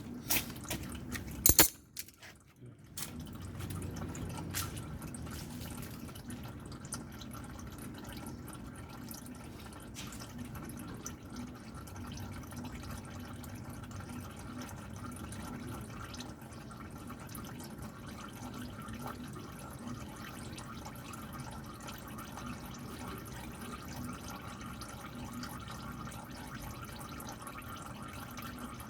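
Engine oil dripping and trickling steadily from the 2012 Porsche Cayman's engine into a drain pan during an oil change. A single sharp knock sounds about a second and a half in.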